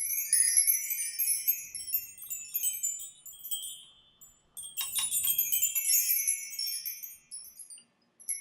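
High tinkling chimes, many small ringing notes in quick succession, in two washes. The first starts at once and fades out by about four seconds; the second starts just before five seconds and fades shortly before the end.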